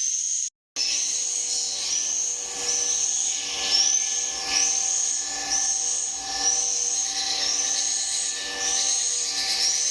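Edible-nest swiftlets calling in a swiftlet house: a continuous stream of high, arched chirps, about one or two a second, over a steady low hum.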